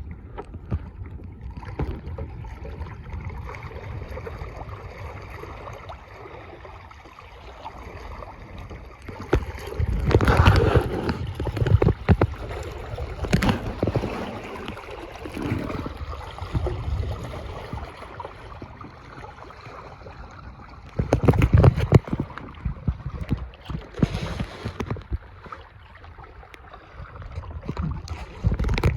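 Lake water gurgling and splashing along a Hobie sailing kayak's hull as it moves under sail, with wind on the microphone. It grows louder in bursts, most strongly about a third of the way in and again past two-thirds.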